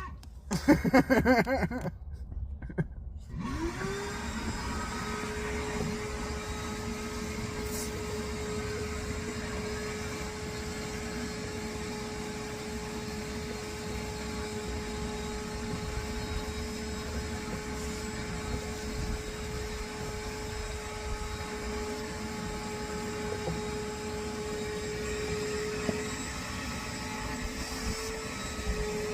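Vacuum cleaner being used on car interior, switched on about three seconds in: its motor spins up with a rising whine, then runs steadily with a constant hum. A brief loud burst of noise comes about a second in, before the motor starts.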